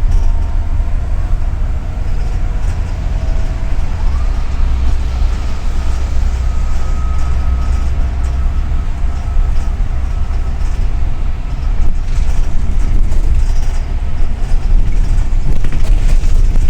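A double-decker city bus under way, heard from inside the cabin: a steady low engine and road rumble. About four seconds in, a faint whine rises in pitch and then holds.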